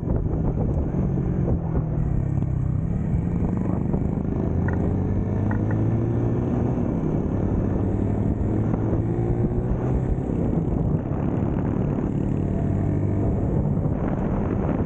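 Motorcycle engine running under way, its pitch gently rising and falling as the rider changes speed, with wind buffeting the microphone.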